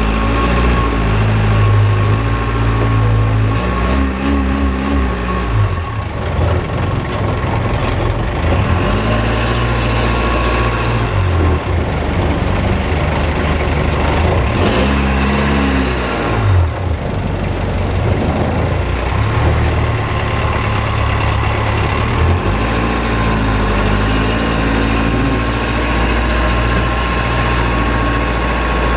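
A canal boat's engine running loud, its pitch rising and falling several times as the throttle is opened and eased, with a steady high whine over it.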